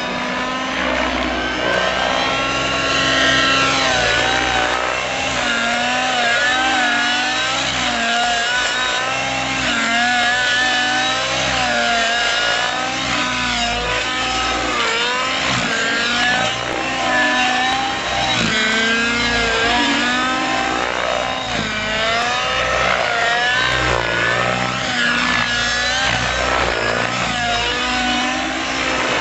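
Nitro radio-control helicopter (Avant EFX with a YS 91SR glow engine) flying aerobatics: a continuous high engine-and-rotor whine whose pitch swoops up and down every second or so as it manoeuvres.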